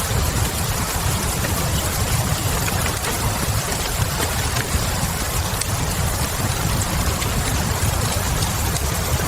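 Ambience of fireplace and rain: a steady rain hiss over a low rumble, with a few faint, scattered fire crackles.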